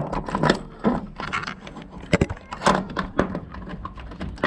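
Keys jangling, then a string of clicks and knocks as a door is unlocked with the key and opened, the sharpest knocks about two and three seconds in.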